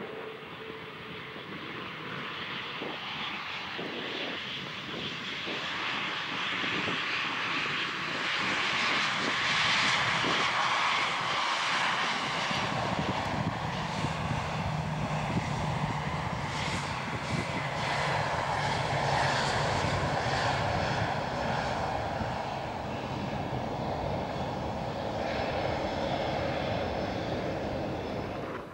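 Airbus A320 jet airliner landing close by: the rushing engine noise builds and then holds loud, with a low steady hum joining about halfway through.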